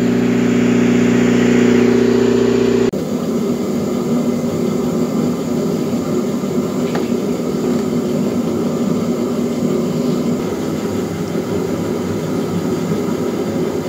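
Engine of concrete-cutting equipment running steadily with an even, pitched drone. About three seconds in the sound changes abruptly to a rougher, noisier running.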